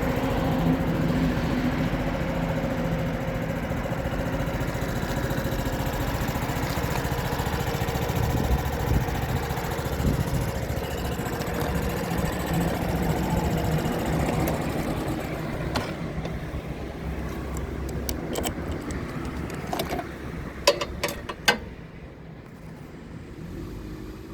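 Honda Super Cub 50's small single-cylinder four-stroke engine idling steadily, then fading near the end. A few sharp clicks come in the last seconds.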